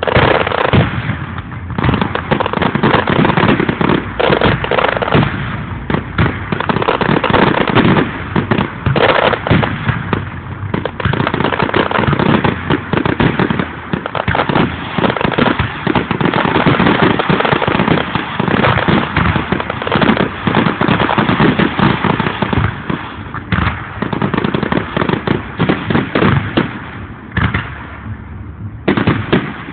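Aerial firework shells bursting in a dense barrage, many bangs overlapping almost without pause, easing briefly near the end.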